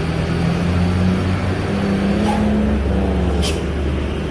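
A road vehicle's engine running steadily, its pitch rising a little about a second in and easing back down after about two and a half seconds. A short high hiss comes about three and a half seconds in.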